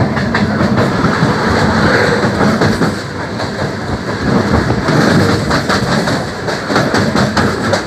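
MEMU electric passenger train running at speed, heard from aboard: a steady rumble of the coach on the track, with the wheels clattering over rail joints in a run of quick clicks from about five seconds in.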